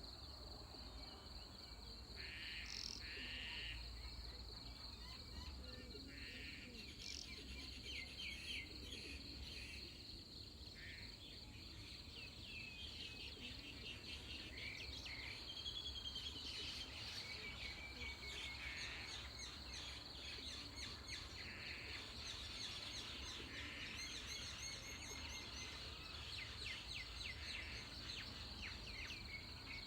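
Dawn chorus: many birds chirping and trilling over a steady high-pitched insect drone, with a low rumble underneath.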